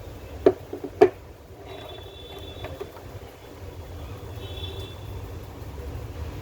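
Hard parts being handled: two sharp clicks or knocks in the first second, then a few short squeaky scrapes, over a low rumble.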